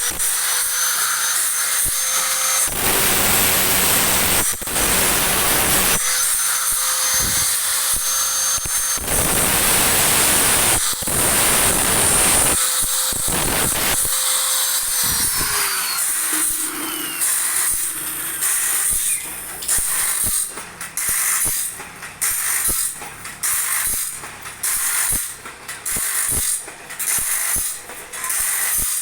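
Power tool running in a workshop with a steady whine broken by long stretches of harsh grinding noise. The whine drops away about halfway through. Near the end the tool cuts in and out in a rhythm of roughly once a second.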